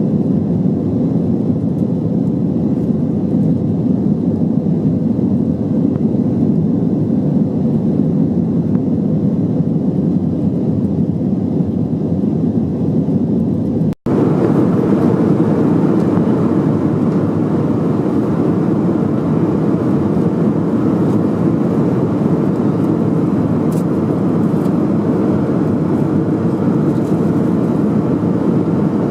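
Steady in-flight cabin noise of an Airbus A321-200, engine and airflow noise heard from an economy seat. A short break about halfway through, after which the noise is slightly brighter.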